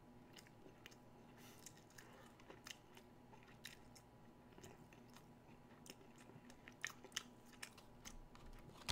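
Faint chewing of a mouthful of McDonald's Chicken McNuggets: scattered small clicks of the mouth and jaw, irregular, over a low steady hum.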